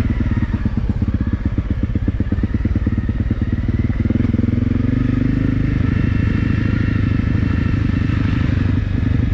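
Honda CRF250L single-cylinder four-stroke engine running as the bike is ridden at low speed, its note rising a little about four seconds in and then holding steady.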